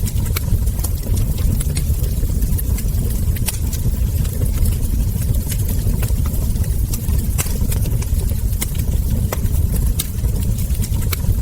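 Log fire burning, with sharp, irregular crackles and ember pops over a steady low rumble.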